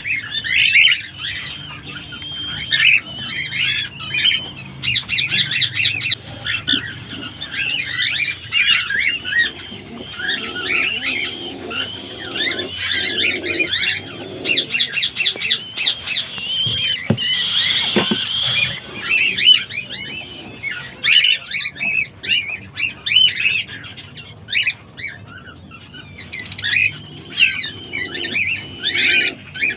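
Cockatiel chicks calling without pause in short high chirps and squawks, with several quick runs of rapid repeated notes. One sharp knock sounds a little past halfway.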